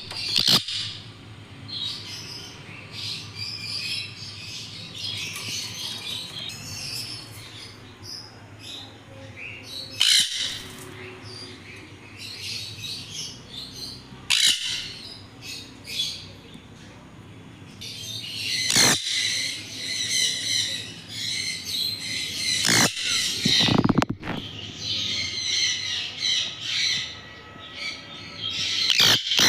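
Baby conures calling continuously in a busy chatter of chirps, with several sudden loud squawks breaking through.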